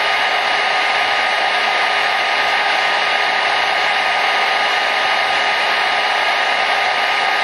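Hair dryer running steadily: an even, unbroken blowing rush with a faint steady whine from the motor and fan.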